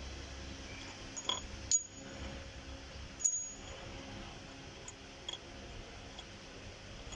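A handful of sharp metal clinks and taps from hand tools and the steel parts of an oil-seal installer tool being taken off a truck engine's crankshaft. The loudest two come about a second and a half apart, with fainter ticks later, over a low steady hum.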